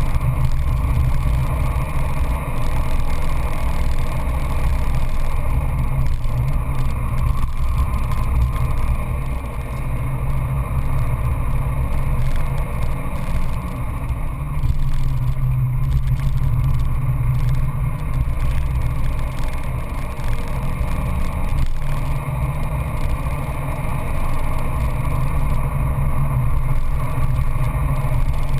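Peugeot 206 GTI S16's 2.0-litre 16-valve four-cylinder engine running hard at track speed, heard from inside the cabin together with tyre and wind noise. The note is steady, dipping briefly in level a few times.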